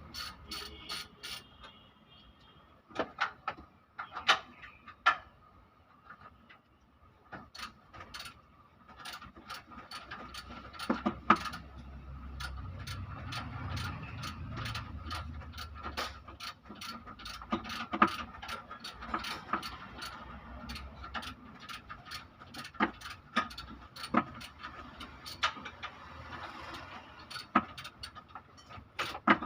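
Ratchet wrench clicking in short runs and metal tools clinking against engine parts as an engine is taken apart.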